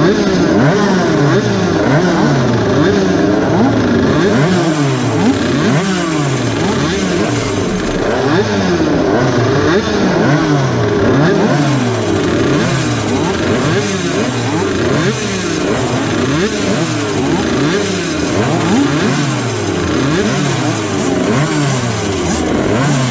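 A grid of small 50cc two-stroke racing motorcycle engines, among them an air-cooled, piston-port Puch Cobra, revving up and down over and over at standstill, several engines overlapping.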